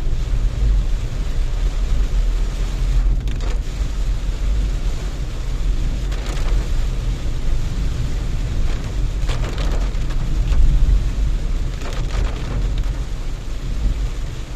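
Heavy rain pelting a moving Renault Triber, heard inside the cabin over a steady low road rumble. Short swishes recur about every three seconds.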